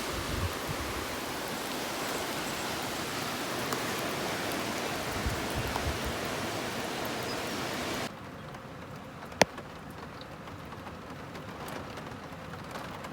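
Steady rain. About eight seconds in it cuts abruptly to quieter rain with scattered drips and one sharp tap.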